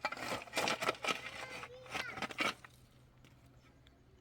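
Short bursts of voice-like sound in the first two and a half seconds, then a quieter stretch with only a steady low hum.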